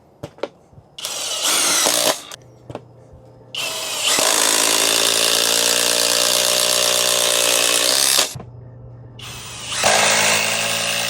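Kobalt XTR cordless impact driver running on speed 3 in three runs, a short one about a second in, a long one of about four seconds, then another near the end. It gives a loud, dense buzzing rattle, with a couple of clicks at the start.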